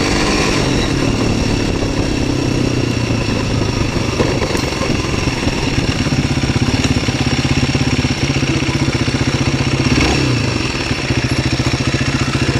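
MZ 125 SX's single-cylinder four-stroke engine, heard from on board: it slows down over the first couple of seconds, then runs at low revs with an even pulsing, with a brief rev up and back down about ten seconds in.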